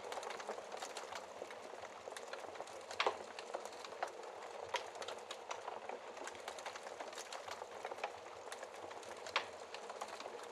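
Wood fire crackling in a fireplace: a soft steady hiss under frequent small irregular pops and snaps, with a couple of sharper pops about three seconds in and near the end.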